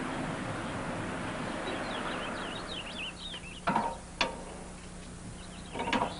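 A steady rushing noise like a passing vehicle fades away over the first few seconds while small birds chirp. Then come two sharp knocks about half a second apart, with a faint low hum beneath.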